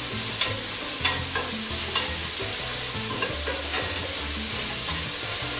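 Diced onion and tomato frying in oil in a stainless steel stockpot, a steady sizzle, while a wooden spoon stirs them, scraping and tapping against the pot now and then.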